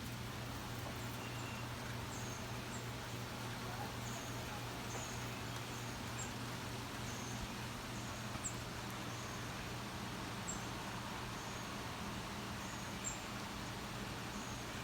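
Steady outdoor background of a low hum and an even hiss, with faint short high-pitched chirps repeating every second or so. No thunder is heard.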